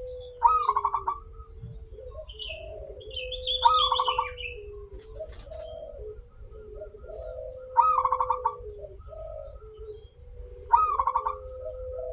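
Zebra dove (perkutut) cooing: a loud, rapidly pulsed call repeats four times, every three to four seconds, over continuous lower cooing.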